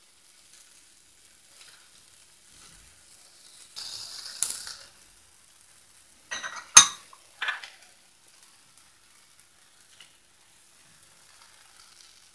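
Elephant apple slices frying faintly in ghee in a kadai while salt and turmeric are added. A short hiss comes about four seconds in, and a sharp spoon clink against the pan, with a couple of softer knocks, comes near the seven-second mark.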